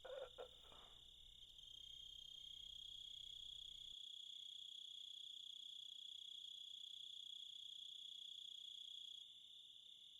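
Faint, steady high-pitched chirring of insects, stronger from about a second and a half in until shortly before the end, with a couple of faint taps at the start.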